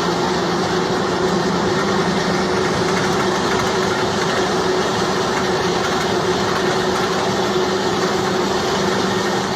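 Homemade helicopter's engine running steadily at a constant speed, with a steady hum over the engine noise.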